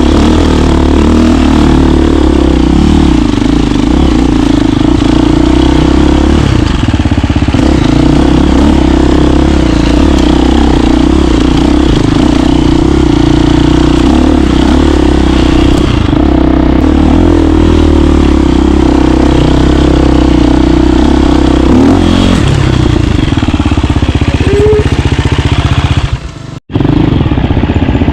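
KTM 350 dirt bike's single-cylinder four-stroke engine running under way, its pitch rising and falling with the throttle. The sound cuts out for a moment near the end.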